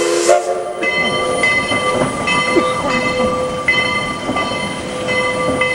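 Heisler #91, a geared steam locomotive, passing close by: its whistle chord and steam hiss cut off under a second in, then a steady metallic ringing that swells roughly once a second carries on.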